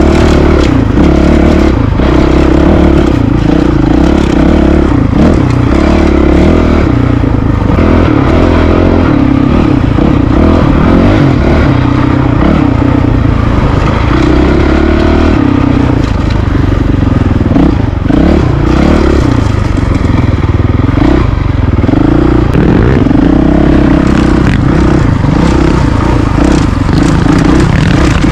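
Honda CRF450RL's single-cylinder four-stroke engine running loud under riding load, its pitch rising and falling with the throttle every second or two. Clattering and scraping from the bike over rough dirt trail runs alongside it.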